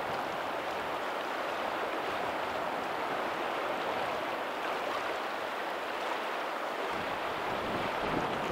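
Steady rush of water where a lagoon's tidal outflow meets the sea, with faint ocean surf behind it. A deeper swell of sound comes in about seven seconds in.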